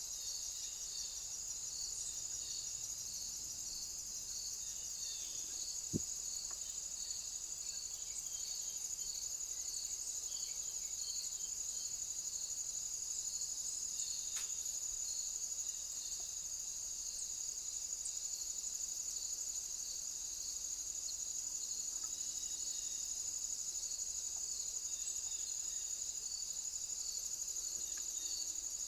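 Insects calling in a steady high chorus, with a slower pulsing call beneath it. There is a single short click about six seconds in.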